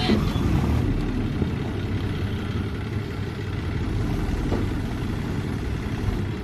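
Diesel engine of heavy farm machinery running steadily at low revs.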